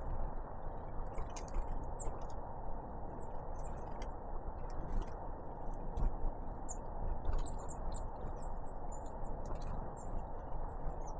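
Great tits and blue tits giving short, high-pitched call notes, scattered all through, with light ticking clicks, over a steady low hiss.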